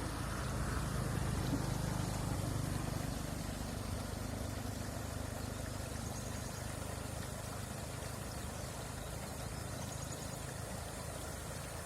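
Steady rushing water, a constant noise with a low rumble that swells over the first few seconds and then eases back.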